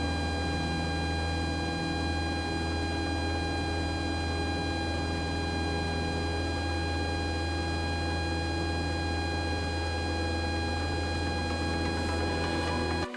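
Steady cockpit drone of a light single-engine Cessna in flight: a low engine hum with a steady, high electrical whine over it. The sound is unchanging and cuts off abruptly at the very end.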